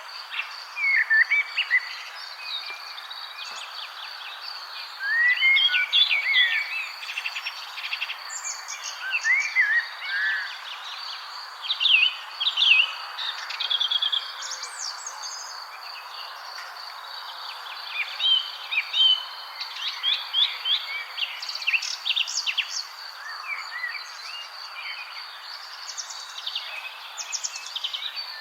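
Many songbirds chirping and calling over one another, short quick notes and little rising and falling whistles, busiest in several clusters. Beneath them run a steady high-pitched tone and a constant background hiss.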